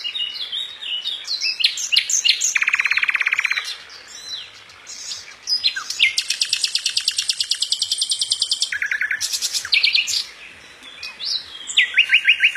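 Birds chirping and calling in quick, high-pitched bursts, with rapid trills. A long fast trill runs through the middle, and there are short pauses between the bouts.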